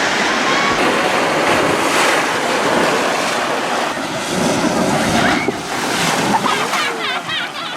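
Rushing water of a waterfall cascade: a loud, steady rush, with a few short high chirps near the end.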